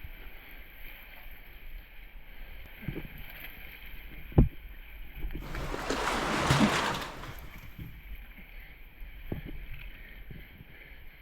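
Someone moving through shallow cave water: scattered knocks and bumps, one sharp knock about four seconds in, and a couple of seconds of splashing just past the middle.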